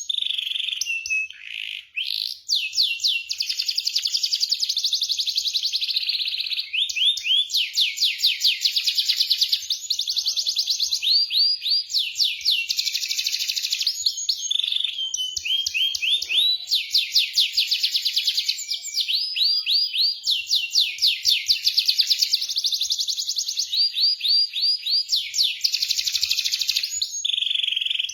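Domestic canary singing a long, loud song of very fast rolling trills and rapid repeated notes, with only brief breaks between phrases.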